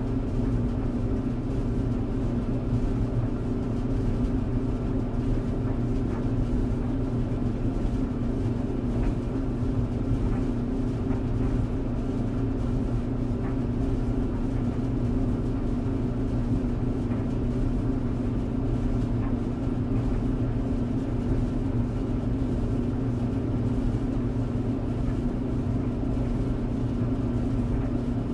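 Tumble clothes dryer running steadily: the motor and turning drum make a constant low hum that does not change.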